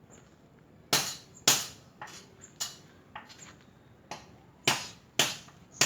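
A hammer striking repeatedly in uneven blows, about nine knocks roughly half a second apart, each with a short ring: typical of panel-beating work on a car body.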